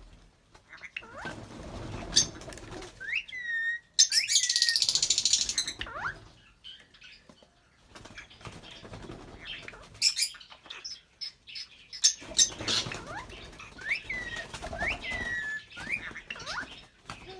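A pair of albino red-eyed lovebirds chirping in short calls that sweep up and down in pitch, with bursts of wing flapping; the loudest flapping burst comes about four seconds in and lasts around two seconds.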